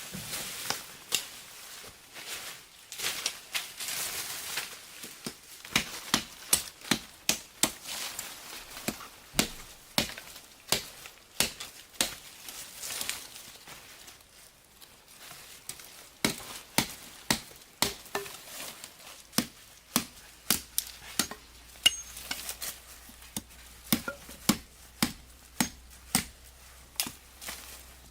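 A blade chopping again and again, about one or two sharp strokes a second, with a short pause partway through.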